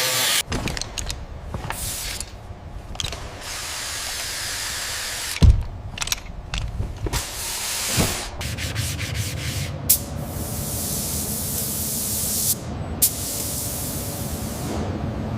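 Car restoration workshop noise: stretches of rough hissing and scraping, like sanding or spraying, broken off by several sudden cuts. A heavy thump comes about five seconds in, with lighter knocks later.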